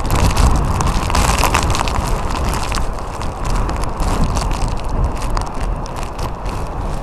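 Typhoon-force wind buffeting a phone's microphone: a loud, continuous low rumble shot through with crackling hits.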